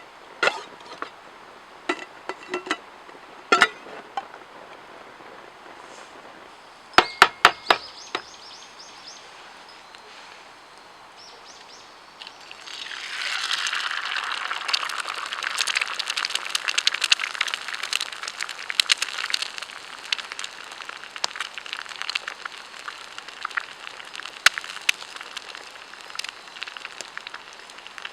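A few sharp metallic clinks, then a sizzle full of crackles that starts suddenly about twelve seconds in and keeps going, like food laid into a hot pan over a campfire.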